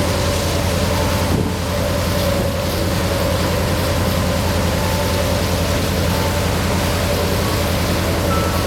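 Boat engine running steadily with a fast, even throb, over wind and water noise.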